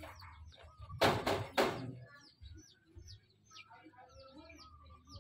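Small birds chirping: short, high, falling chirps, several a second, from about two seconds in. A brief louder sound comes about a second in.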